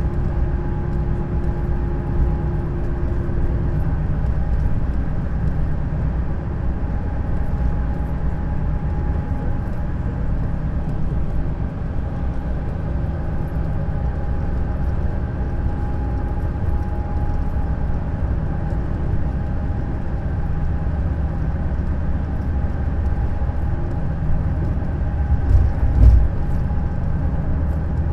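Neoplan Skyliner double-deck coach under way, a steady low rumble of engine and tyres with a faint steady whine, heard on board. About 26 seconds in there is a brief thump, like a jolt over a bump in the road.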